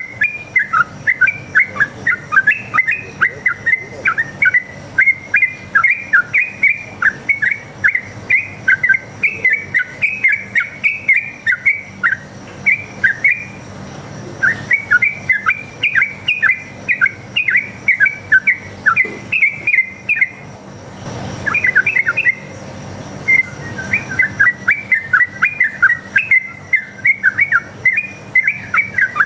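Yellow-vented bulbul (trucukan) singing a fast, continuous run of bubbly chattering notes, a wild bird's long rapid song, breaking off briefly about 12 and 21 seconds in.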